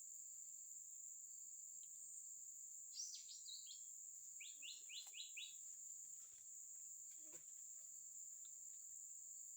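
Faint, steady high-pitched drone of forest insects, with a songbird calling over it: a short burst of chirps about three seconds in, then a quick run of five descending notes a little later.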